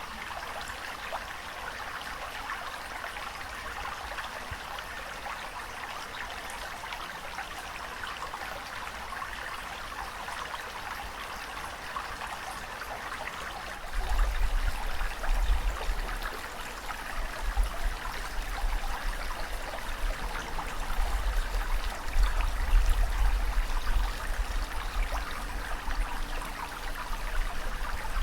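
Steady rushing water with a continuous hiss. About halfway through, a deep, uneven rumble joins it and the sound grows louder and more uneven.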